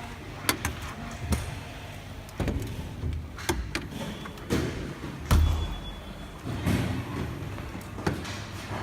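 Irregular knocks, clicks and thuds, about a dozen spread over several seconds, the loudest about five seconds in, over a low steady hum.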